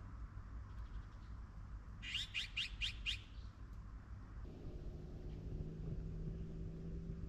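A bird calling a quick run of about five falling notes, about two seconds in, over a low background rumble. A low steady hum starts about halfway through.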